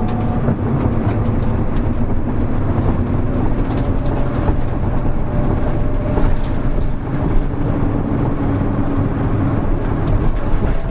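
Hino Rainbow HR (KL-HR1JNEE) city bus running under way, heard from inside the cabin: a steady diesel drone with a faint whine that drifts slightly in pitch, and light rattles and clicks now and then.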